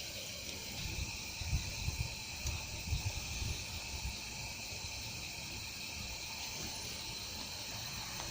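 A steady chorus of insects chirping, with a few low thumps in the middle.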